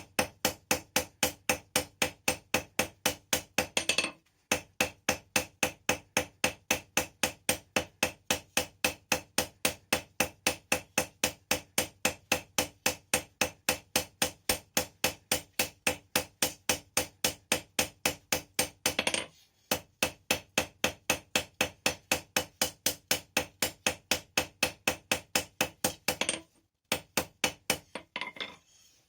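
Blacksmith's hand hammer striking hot rebar steel on an anvil in a fast, steady rhythm of about three to four blows a second, each blow with a ringing anvil tone. The hammering breaks off briefly about four seconds in and again about nineteen seconds in, stops for a little longer later on, then ends with a few irregular blows near the end.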